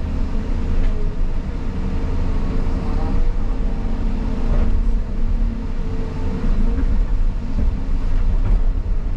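Caterpillar 323 excavator's diesel engine and hydraulics running steadily under load with a constant hum, and a few faint knocks of debris being handled.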